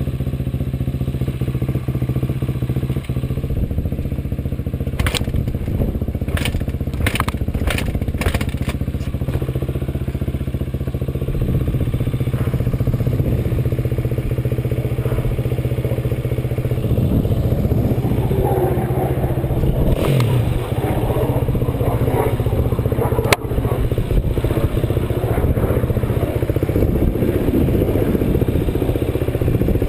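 Off-road vehicle engine running steadily while riding, with sharp clicks and rattles about five to nine seconds in. In the last third the engine note turns uneven and shifts up and down with the throttle, with one sharp knock.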